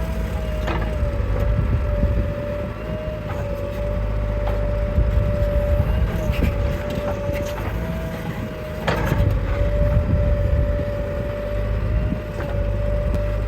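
Heavy diesel machinery running steadily, a low rumble with a constant high whine over it, and a few sharp knocks, the clearest about nine seconds in.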